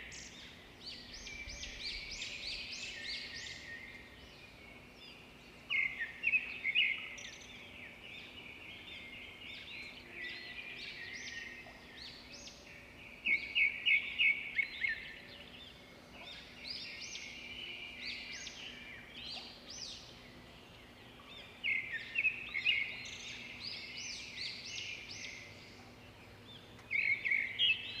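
Birds singing, with a loud burst of rapid repeated notes about every seven seconds and quieter chirping between.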